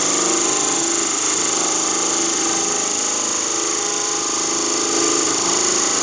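Wood lathe running steadily while a turning tool cuts into the spinning wood of a small ornament, making a continuous hiss as a section is turned down thin.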